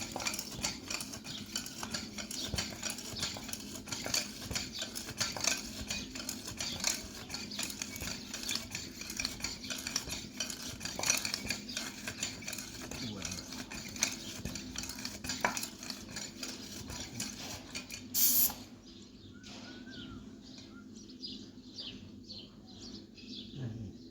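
Rapid, continuous clinking and scraping of metal, dense for most of the stretch. After a short loud burst about 18 seconds in it turns fainter, with scattered clicks.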